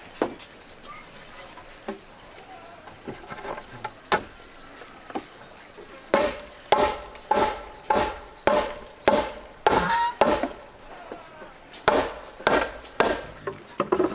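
A hand tool striking wood: a few scattered knocks, then a steady run of about eight sharp, ringing blows a little over half a second apart, and three more near the end.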